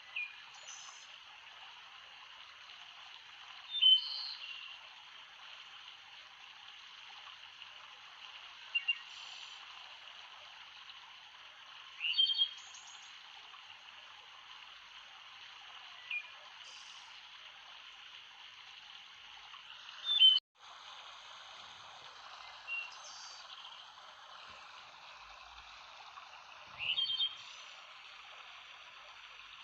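Steady rushing of running water, with a bird giving short, sharp chirps about every four seconds over it. The water sound drops out for an instant about two-thirds of the way through.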